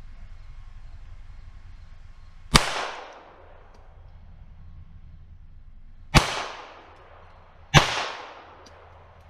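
Three shots from a Ruger Mark III 22/45 .22 LR target pistol: a sharp crack, each followed by a brief echoing tail. The first comes a couple of seconds in, the next two about a second and a half apart near the end.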